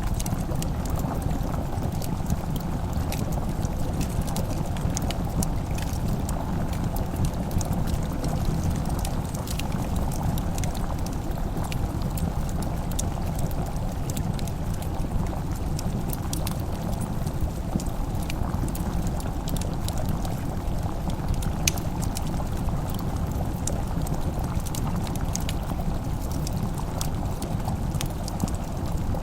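Wood fire crackling, with sharp irregular pops and snaps over a steady low noise bed.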